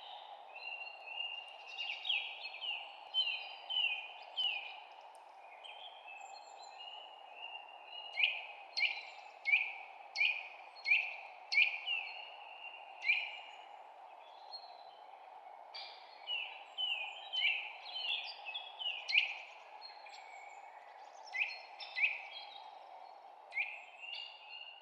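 Birds chirping: short, sharp, high notes that each drop quickly in pitch, some single and some in quick runs of several, over a steady low background hiss.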